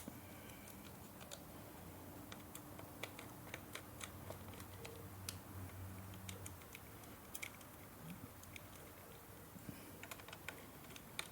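Faint, irregular light clicks and ticks of small bolts being started by hand with a bit-tipped screwdriver into a new PCV valve (crankcase oil separator) housing.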